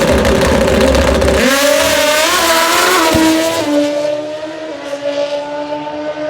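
Top fuel drag motorcycle engine at full throttle: loud and rough for the first second and a half, then a clear engine note that climbs and wavers in pitch, dropping in level after about four seconds.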